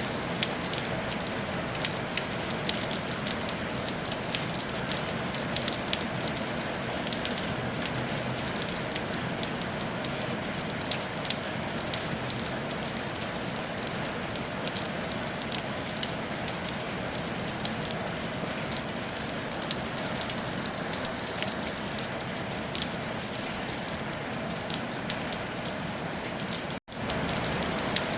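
Steady rain on a tile roof: an even hiss with a dense patter of individual drops ticking. Near the end the sound cuts out for a split second and comes straight back.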